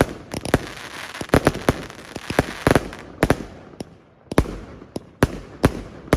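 Fireworks going off: a string of sharp bangs, roughly two a second at uneven spacing, over continuous crackling.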